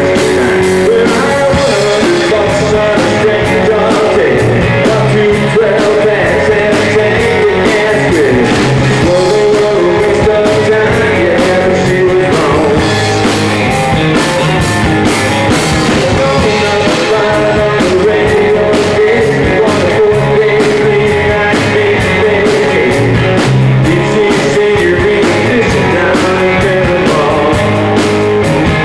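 Live band playing a country song: a lead vocal over guitars, bass and drums, loud and steady.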